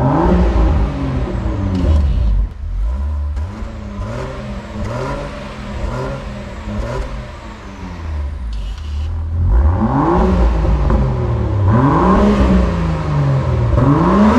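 Land Rover Defender P400's inline-six engine revved in a series of throttle blips through a Quicksilver stainless valved exhaust, the revs rising and falling over and over. There are smaller blips at first, then three bigger rev rises in the last few seconds.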